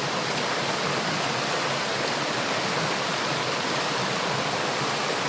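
Steady rush of water from a waterfall, an even hiss with nothing else standing out.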